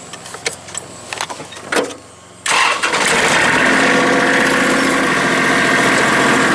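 A few light clicks and knocks, then about two and a half seconds in a tractor engine starts, catches at once and runs steadily. It is being run to check newly replaced hydraulic hoses for leaks.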